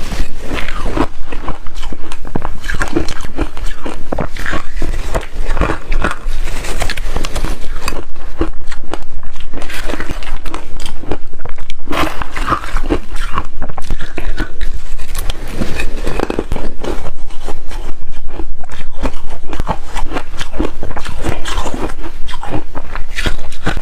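Close-up biting and chewing of hard refrozen ice: a dense, continuous run of loud crunches and cracks.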